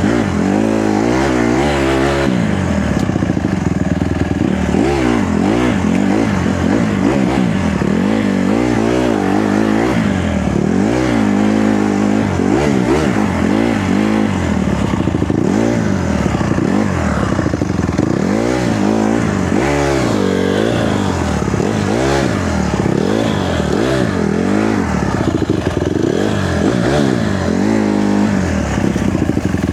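Honda CRF150R dirt bike's single-cylinder four-stroke engine under riding load, its pitch rising and falling again and again as the throttle is opened and closed and the gears change.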